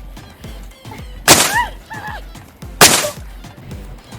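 Background music with a steady beat, over which two loud sudden shrieks or yelps from children break out, the first with a short rising-and-falling cry.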